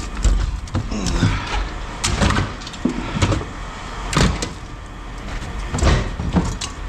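Irregular metallic clanks and knocks of scrap metal being handled, about eight over several seconds, over a steady low engine rumble.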